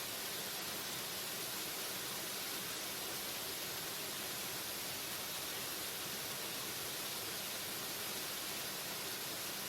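Waterfall: a constant rush of falling water, a steady hiss weighted toward the high end with little low rumble.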